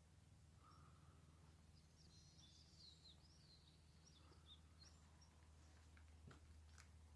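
Near silence outdoors, with faint small-bird chirps a couple of seconds in and a few faint clicks near the end.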